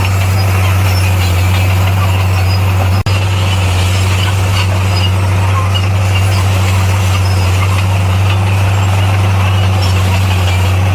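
Heavy diesel earthmoving machine engine running steadily under load, a constant low drone with a brief dropout about three seconds in.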